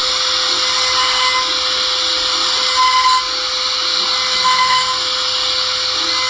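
A motorised machine tool running steadily while metal air rifle pump parts are worked, with a constant whine and short higher squeals about three seconds in and again near four and a half seconds.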